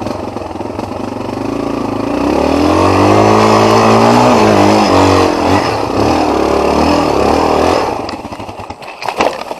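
Off-road motorcycle engine revving up and down under throttle, growing louder to its peak in the middle and dropping away about eight seconds in.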